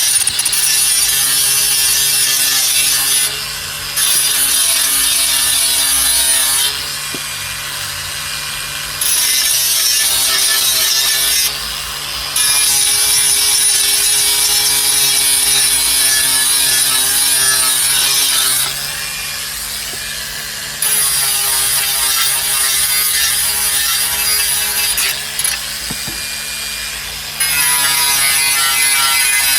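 Angle grinder running against the car's sheet-metal sill, a steady motor whine under a loud, high-pitched grinding hiss. Several times the hiss eases off for a second or two while the motor keeps spinning, then the disc bites again.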